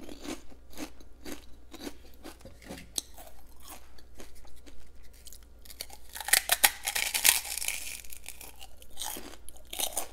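Fried prawn crackers being bitten and chewed: a run of crisp crunches, with a louder, denser burst of crunching about six seconds in and another bite near the end.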